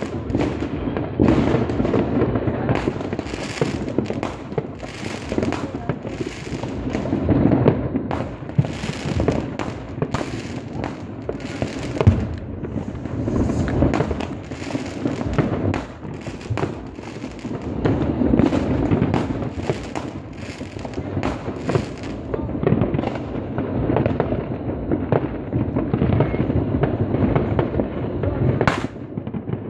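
Many fireworks going off all around: a continuous rumble of shell bursts and crackling, packed with sharp bangs from firecrackers and rockets. The bangs thin out in the last third, with one sharp crack near the end.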